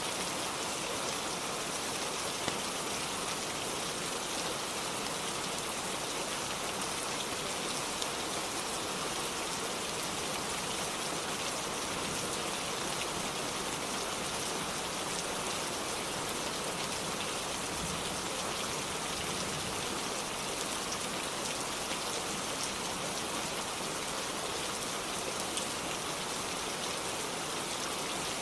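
Steady rainfall, an even dense patter with no break, with a few faint short ticks standing out near the start.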